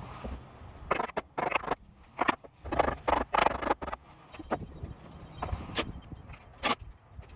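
About a dozen uneven, sharp knocks and clatters from work on a timber deck frame.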